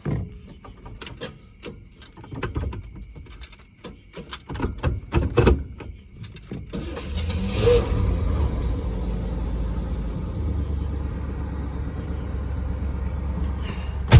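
1964 Cadillac Eldorado's 429 V8 being cold-started: several seconds of starter cranking, then the engine catches about seven seconds in with a brief rev and settles into a steady low idle. A sharp knock comes right at the end.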